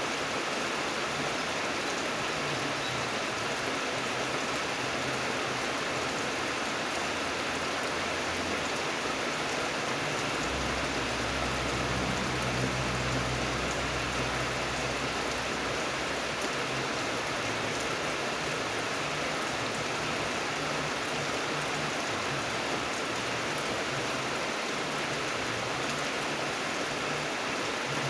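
Steady rain falling, an even hiss of drops. A low rumble swells in the middle for several seconds and fades again.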